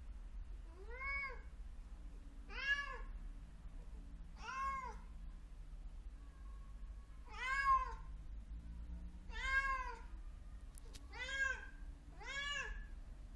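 Domestic cat meowing insistently, seven separate meows that each rise and fall in pitch, one to three seconds apart: an anxious cat calling while it waits. A steady low hum lies underneath.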